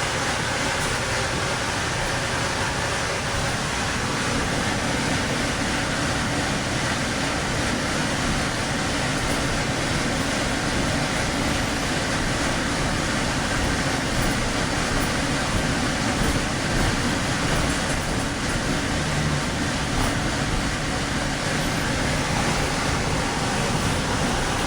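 Amtrak passenger train under way, heard from aboard: a steady, even running noise of the car rolling on the rails.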